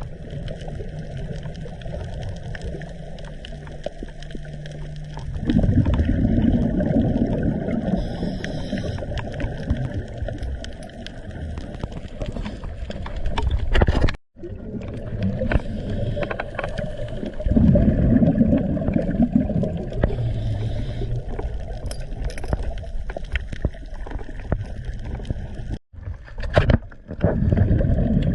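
Underwater recording of a scuba diver's exhaled bubbles gurgling in loud low surges that last a second or two, over a constant fine crackle of clicks. The sound cuts out briefly twice.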